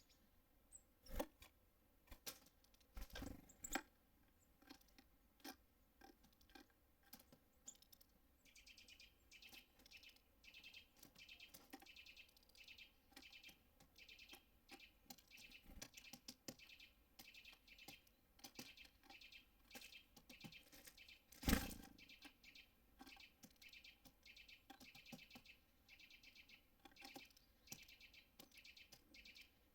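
Birds chirping in quick, high repeated calls, faint but continuous from about a quarter of the way in, over scattered sharp knocks and taps, the loudest a single knock about two-thirds through.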